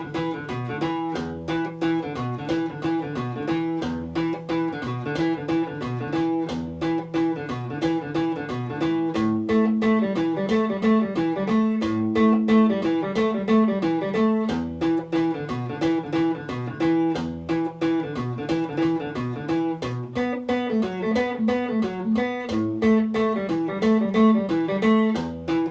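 Guitar playing a fast blues riff in E at about 180 beats a minute, with repeated low E notes under quick single-note runs, over a steady, evenly spaced ticking beat.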